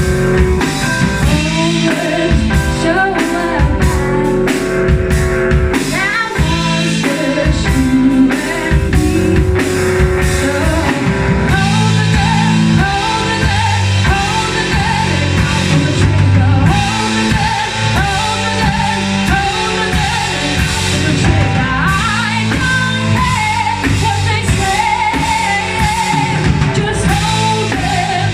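Live rock band playing: a singer over a drum kit, guitar and bass, loud and continuous.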